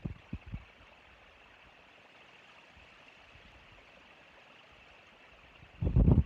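Steady faint outdoor hiss picked up by the nest camera's microphone. It is broken by two short low knocks just after the start and a louder low rumble near the end.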